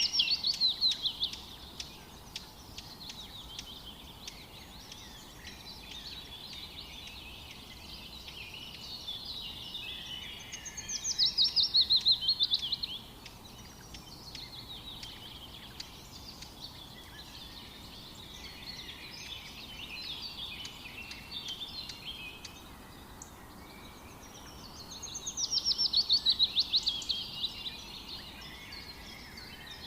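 Forest birdsong: a loud song of rapid notes falling in pitch over about two seconds, heard at the start, about eleven seconds in and again near the end, with softer chirping from other birds between, over a faint steady background hiss.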